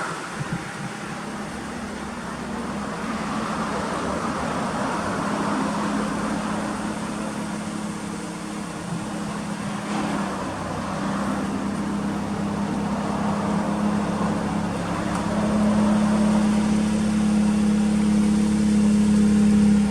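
Toyota Altezza RS200's 2.0-litre inline-four running at a steady idle through an aftermarket 5ZIGEN exhaust, a low even hum that grows louder in the last few seconds.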